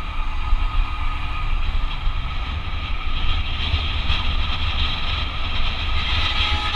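Motorbike engine running steadily on a mountain climb, under a heavy, uneven low rumble and a constant hiss.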